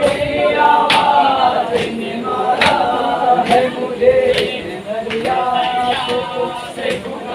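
A group of men singing a noha, an Urdu lament, in chorus without instruments. Sharp beats keep time about once a second.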